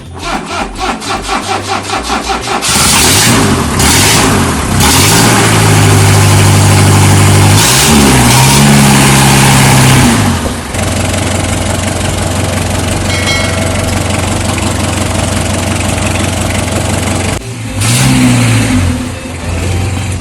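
Ambassador's Isuzu diesel engine cold-starting after a year and a half unused, on jump leads: the starter cranks it with rapid, even strokes for about two and a half seconds. It catches, revs up and down for several seconds, then settles to a steady idle, with one more rev near the end. It runs loud because the silencer is broken at the side.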